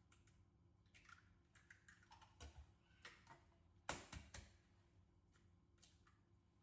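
Faint, irregular light clicks and taps of kitchen handling, with a short cluster of sharper knocks about four seconds in.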